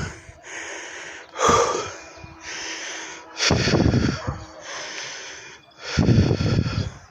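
A man breathing hard and gasping for air, a loud heavy breath about every two seconds with quieter breathing between: out of breath from pushing a heavy load of gravel up a steep incline.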